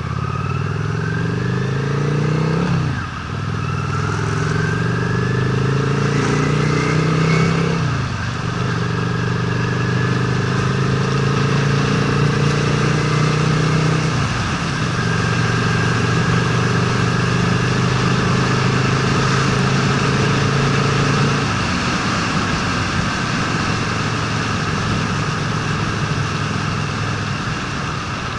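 Honda Steed V-twin motorcycle engine pulling through the gears. The engine note rises and drops at upshifts about 3 and 8 seconds in, holds steady, drops again at another shift midway, and falls away near the 22-second mark as the throttle closes. A steady rush of wind and road noise runs underneath.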